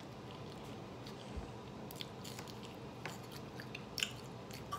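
A person chewing thick-cut French fries and burger with mouth closed: a few soft scattered mouth clicks and smacks, over a faint steady room hiss.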